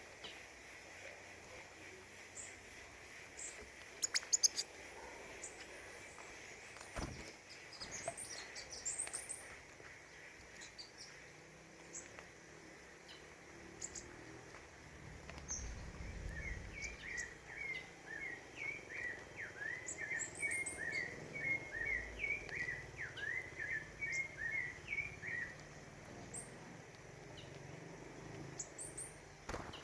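Wild songbirds calling: scattered short, high chirps, a brief cluster of sharp calls about four seconds in, and from about halfway a rapid warbling run of notes lasting about ten seconds.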